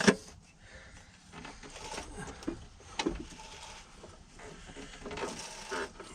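Scattered knocks and handling noises of a piston being pushed up into an engine cylinder by hand and sticking: a sharp knock right at the start and another about three seconds in, with faint rustling between.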